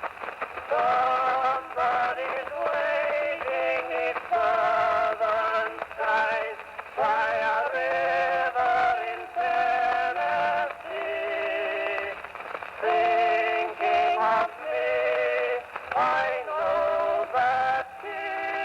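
Men singing a song on an early acoustic cylinder phonograph recording, the sound thin and narrow with no deep bass or high treble.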